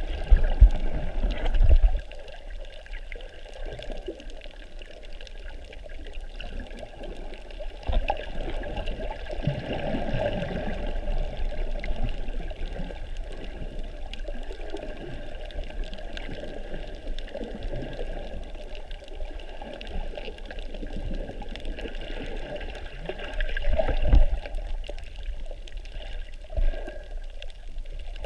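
Water sloshing and trickling around a snorkeler's camera, louder and bumpier for the first two seconds, then steady with occasional knocks and a brief louder surge about three-quarters of the way through.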